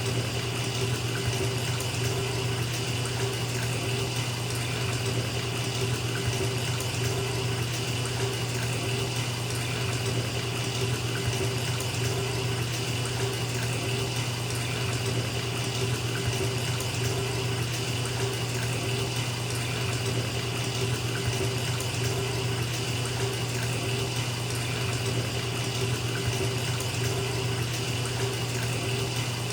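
Bathtub tap running, water pouring steadily into the tub as it fills.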